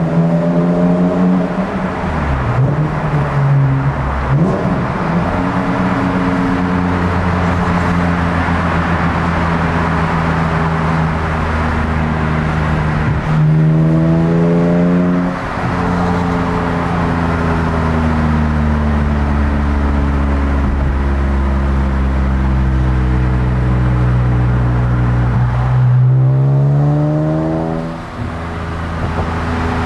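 BMW E46 M3's 3.2-litre straight-six with a GruppeM intake, heard from inside the cabin over tyre and road noise. It pulls hard twice, about 13 s and 26 s in, the revs climbing quickly and then dropping as the SMG II gearbox shifts up; between the two pulls the revs sink slowly as the car eases off.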